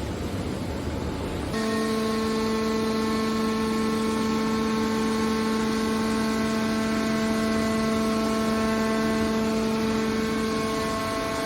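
Hydraulic metal baler's power unit running: a rough rumbling noise, then about a second and a half in a steady multi-tone hum and whine from the hydraulic pump and motor sets in and holds unchanged.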